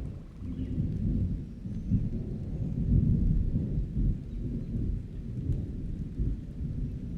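Rolling thunder: a deep rumble that swells to its loudest about three seconds in and then slowly eases off, over steady rain.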